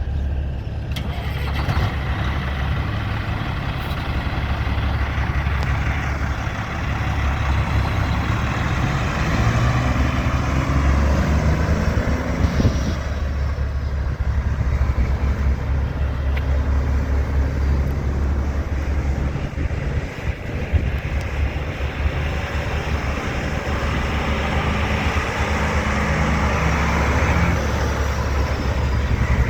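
1993 Kenworth T-800 semi truck's diesel engine running steadily.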